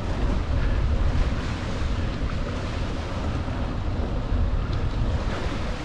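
Wind buffeting the microphone of a moving bicycle, a steady low rumble.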